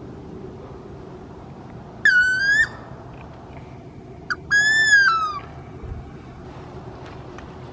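Wood duck squealing calls, two of them, loud and high-pitched. The second is a short note followed by a longer call that drops in pitch at its end.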